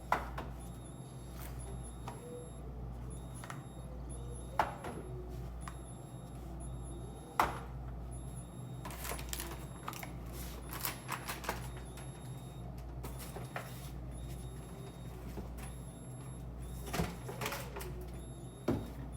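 Food containers and bottles being set down and moved about on fridge shelves: scattered clicks and knocks, with a busy run of small clatters about halfway through, over a steady low hum.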